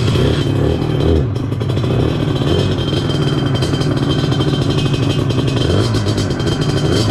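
Targa Twin 275cc two-stroke scooter engine with an expansion chamber exhaust, running steadily under way on the road, its note wavering slightly.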